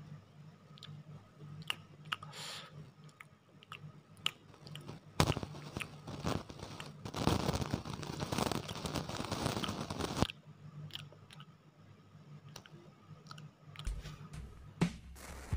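Close-up chewing and crunching of a deep-fried snack, with scattered small crunches and a dense stretch of loud crunching from about five to ten seconds in. A low steady hum runs underneath.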